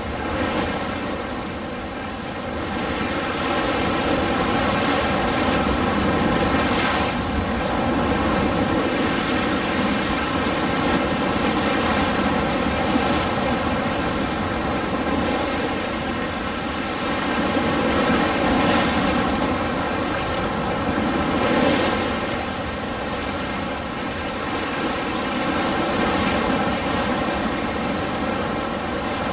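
Ocean waves washing on a shore: a steady surf noise that swells and ebbs slowly as waves come in.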